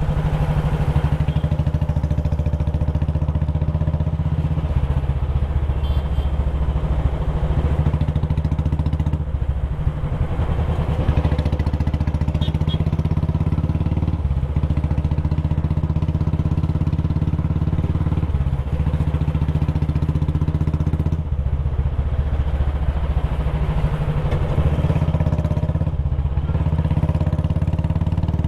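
Royal Enfield Classic 350's single-cylinder four-stroke engine and exhaust running under way. It gives a low, steady note that briefly dips and picks up again about six times.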